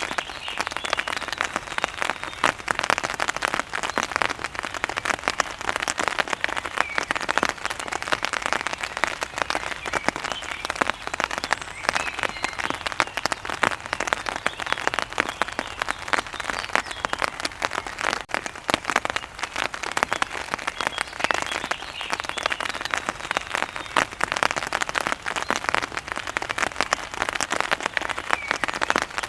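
Steady heavy rain, with drops pattering densely on a hard surface close by. Faint bird chirps come through now and then.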